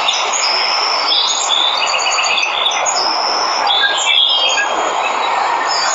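Waterfall rushing steadily, with birds chirping over it in a series of short, clear calls and quick runs of repeated notes.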